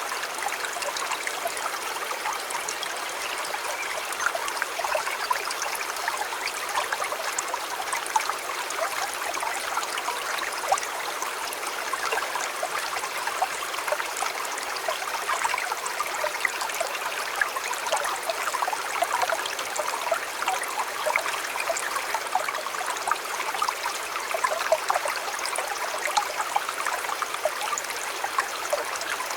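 River water flowing steadily, a constant babble of small splashes and trickles.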